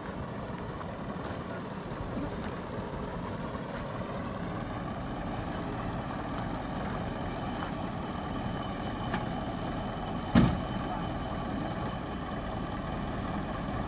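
Truck engine running steadily, with one sharp knock about ten seconds in.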